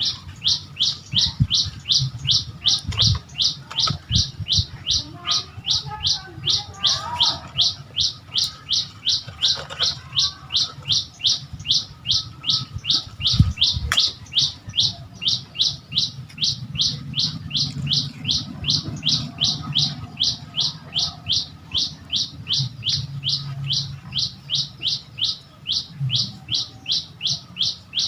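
A bird repeating a short, high chirp over and over at a steady pace of about three calls a second, without pause. A low hum runs underneath.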